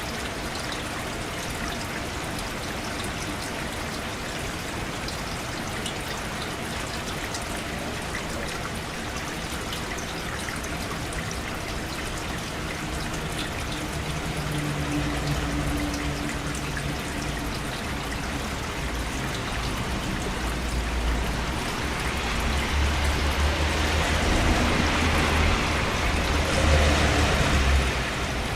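Steady rain falling, with a low rumble of thunder building from about halfway through and loudest near the end.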